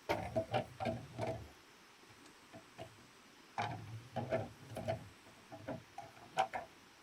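Repeated knocking in two runs of strikes a few tenths of a second apart: one run in the first second and a half, the other starting about three and a half seconds in.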